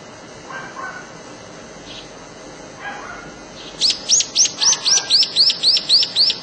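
A songbird singing: faint scattered chirps, then about halfway through a loud rapid run of about eleven identical high, arching notes at about four a second.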